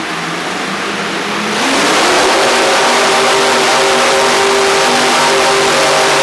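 Mini rod pulling tractor's engine running, then revving up about a second and a half in and holding at high revs, loud and steady.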